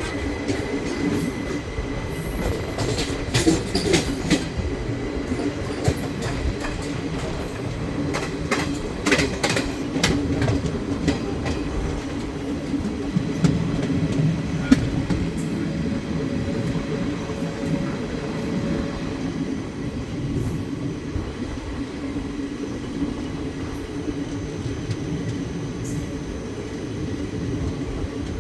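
Indian passenger train running along the track: a steady rolling rumble of the wheels on the rails, with clusters of sharp clicks and rattles about three seconds in and again around nine seconds.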